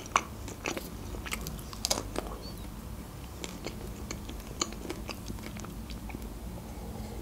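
Close-up chewing of pizza: soft, wet mouth clicks and small crunches, with a few louder ones in the first two seconds.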